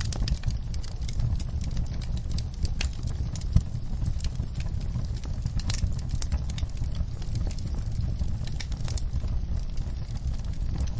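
Wood fire crackling, with irregular sharp pops and snaps over a steady low rumble; one pop about three and a half seconds in is louder than the rest.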